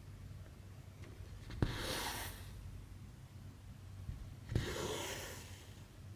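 Thread drawn through cross-stitch fabric twice, about three seconds apart: each pull starts with a sharp click and goes on as a short hissing swish of floss through the cloth.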